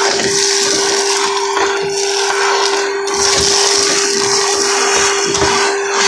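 Henry Xtra canister vacuum cleaner running steadily with a constant hum, its hose nozzle sucking up soot and debris from a wood-burning stove, the rushing air note shifting as the nozzle moves.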